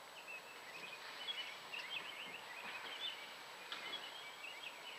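Small birds chirping and twittering rapidly and continuously over steady outdoor background noise.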